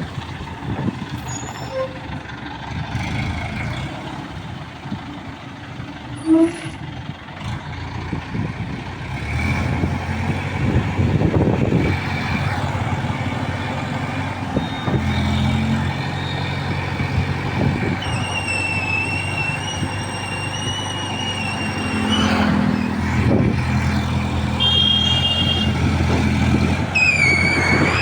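A motor vehicle's engine running steadily, a low hum that grows stronger about a third of the way in. A high, wavering tone sounds twice over it, once in the second half and again near the end.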